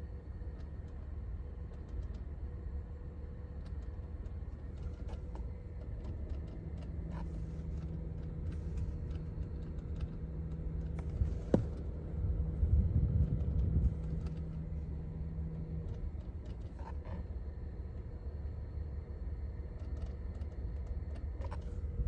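Irregular clicking from behind the dashboard instrument panel of a 2011 Honda Odyssey, over a steady low rumble in the cabin. It is relay-like and comes and goes at random, which the owner takes for a faulty relay. A sharper knock comes about halfway through.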